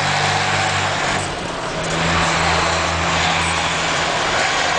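Ford Cargo 4331 truck's Cummins diesel engine running through a straight-pipe exhaust, a steady, loud tone that dips briefly a little over a second in, then carries on at a slightly different pitch.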